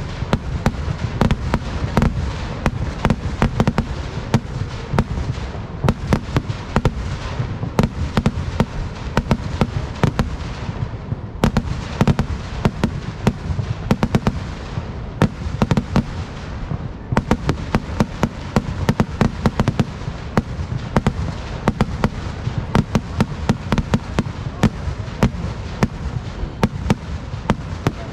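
Kerala temple-festival fireworks (vedikettu) going off in a dense, unbroken barrage: many sharp bangs and crackles a second, with a few louder cracks standing out.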